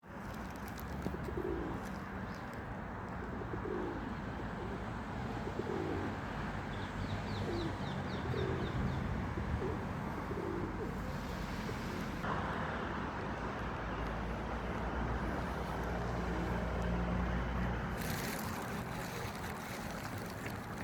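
Pigeons cooing, a run of short repeated coos through the first half, over steady outdoor background noise. A small bird gives a brief quick series of high chirps partway through.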